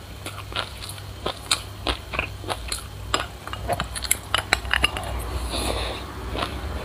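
Close-up crunchy chewing of a mouthful of sesame seeds: an irregular run of sharp crunches and clicks.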